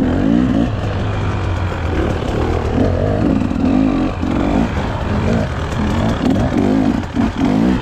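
An engine revving up and down over and over, with a steady low rumble underneath.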